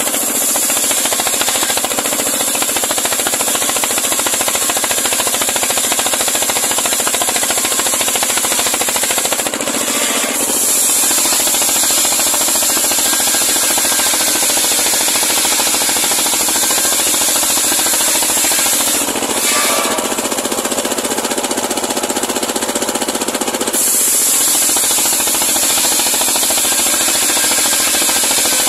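Homemade engine-driven circular sawmill running and cutting through a large pule log, a loud steady machine noise with a brief change in level about ten seconds in and again around twenty seconds in.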